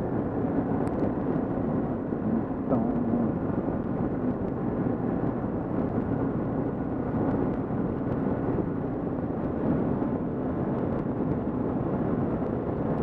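Kawasaki KLR650 single-cylinder engine running steadily while riding, under a constant rush of wind and road noise picked up by a helmet-mounted camera.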